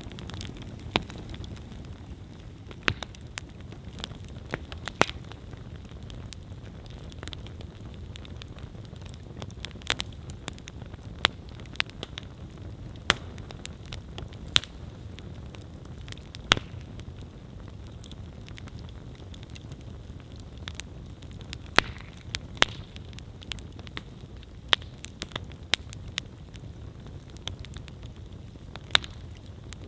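Wood campfire burning: a steady low rush of flames with sharp, irregular crackles and pops of burning wood, a few of them much louder than the rest.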